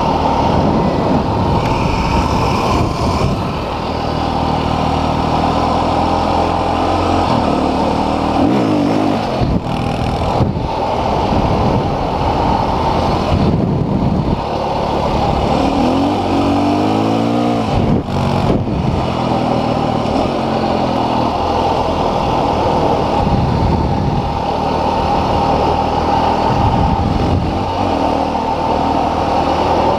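Dual-sport motorcycle engine running steadily under way, its revs climbing twice, about a third of the way in and a little past halfway.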